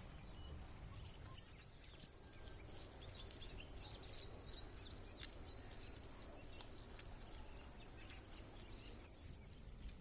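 Faint outdoor ambience with a low rumble, and a songbird giving a quick run of short falling chirps a few seconds in.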